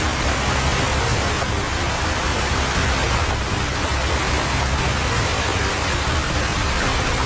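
Heavy typhoon rain and rushing floodwater: a loud, steady roar with a deep rumble underneath.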